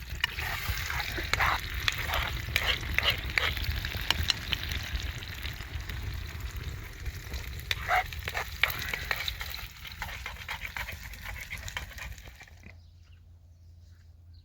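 Food sizzling and crackling in a frying pan, with sharp clicks of stirring. The sizzle stops suddenly about twelve and a half seconds in, leaving a faint low hum.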